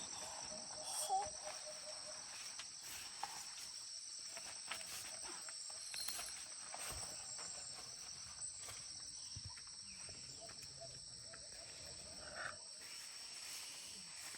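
Insects trilling in a steady high chorus, with a few faint knocks.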